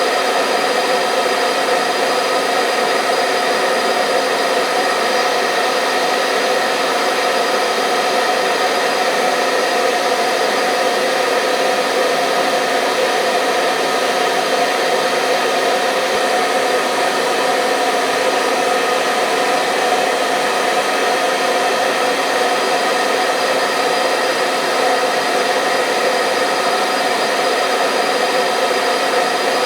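Hair dryer running continuously and steadily: a loud, even rushing of air with a steady motor whine through it.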